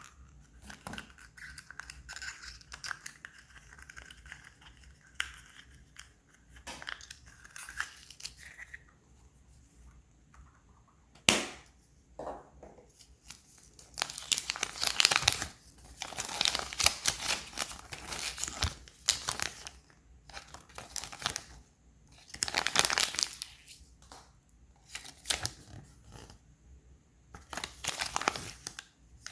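Foil wrapper of a Kinder Surprise egg being torn and crinkled by hand in irregular bursts, with one sharp click about eleven seconds in.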